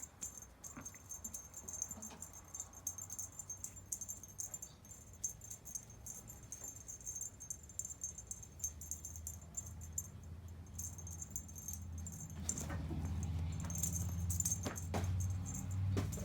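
Small metallic jingling and rattling in repeated bursts as the cats play with the teaser toy. A low hum grows louder in the last few seconds.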